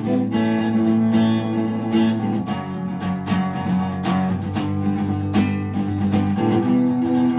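Strummed acoustic guitar playing sustained chords in a steady rhythm, an instrumental passage of a song with no singing.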